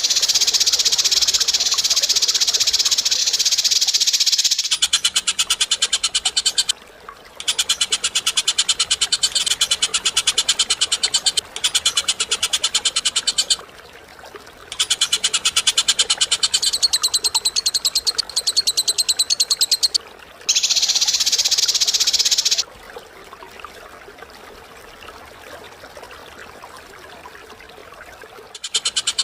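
Long, very rapid rattling trills in bursts of several seconds separated by short breaks, as in a lovebird's 'ngekek' chatter. A denser, high-pitched continuous chatter opens the passage and returns about two-thirds of the way through, then a quieter stretch follows before the trilling starts again near the end.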